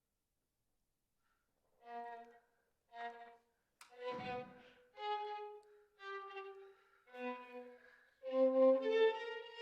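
Violin music: after about two seconds of silence, a slow melody of separate held notes begins, with a faint click partway through.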